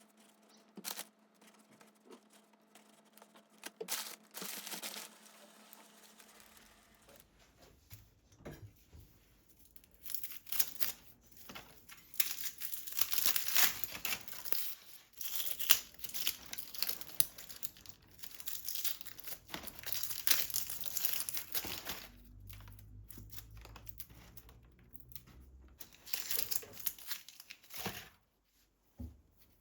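Crinkling, rustling handling sounds, like packaging or paper being handled and torn, broken by scattered clicks. They are sparse at first and get busier and louder from about a third of the way in.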